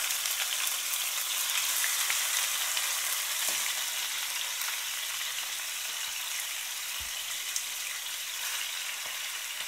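Chicken pieces and ginger-garlic paste frying in hot oil in a karahi: a steady, dense sizzle, loudest in the first couple of seconds and easing a little afterwards, with a soft thump about seven seconds in.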